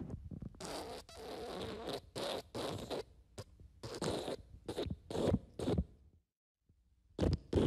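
Fart sound effect: a series of short, noisy, zipper-like sputtering bursts, about two to three a second. It stops dead about six seconds in, and after a moment of silence another effect starts near the end.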